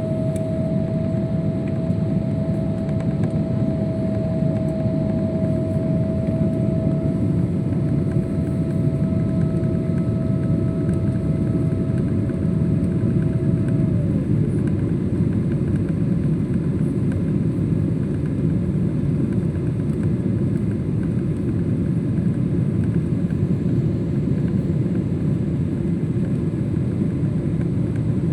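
Steady jet-airliner cabin noise aboard a Boeing 777: a deep, even rush of engine and airflow noise. A steady hum-like tone within it drops slightly in pitch and fades about halfway through.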